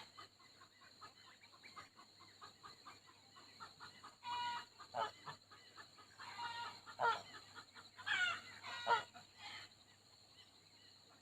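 Farmyard poultry calling: a few louder calls about four, seven and eight to nine seconds in, over fainter chattering.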